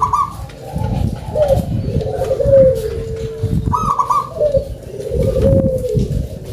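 Zebra dove (perkutut) singing its cooing song. Each phrase opens with a higher note, then runs into lower, rolling coos, and it repeats about every four seconds over a low background rumble.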